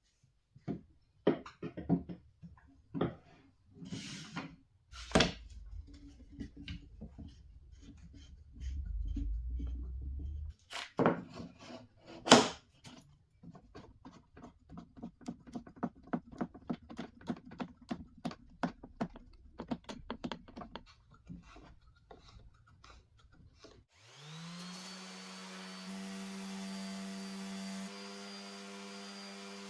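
Knocks, taps and thunks of wooden pieces being handled in a workshop, with a low rumble for a few seconds. Near the end an electric machine motor spins up and runs steadily with a whine.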